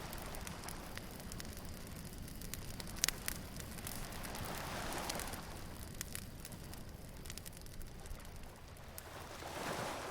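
Beach bonfire crackling with scattered sharp pops, one louder pop about three seconds in, over waves washing in that swell up around the middle and again near the end.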